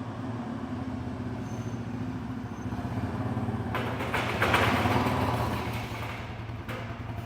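Quad (ATV) engine running steadily, then revved harder for about three seconds from around four seconds in, as if driving the quad up into a kei truck's bed.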